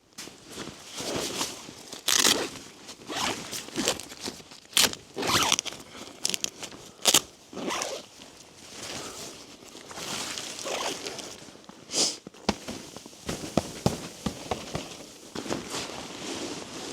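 Irregular crunching in deep snow, footsteps and snow being pushed about, with a few sharper knocks.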